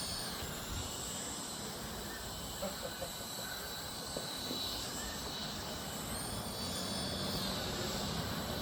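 Small electric rotor motors of a toy infrared-induction helicopter whining high as it hovers, the pitch dropping shortly after the start, rising again past the middle, then dropping near the end.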